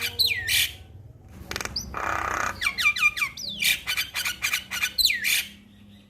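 Male Javan myna calling: runs of quick, sharply falling whistled notes and chirps, broken about two seconds in by a single harsh, noisy note.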